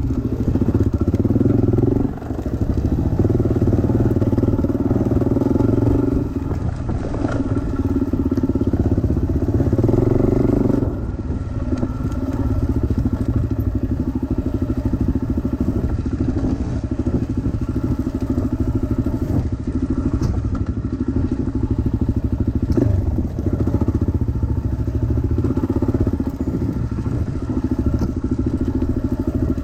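Dirt bike engine running as it is ridden along a trail, revs rising and easing with the throttle, dropping back about 2, 6 and 11 seconds in. A few short knocks are heard over the engine.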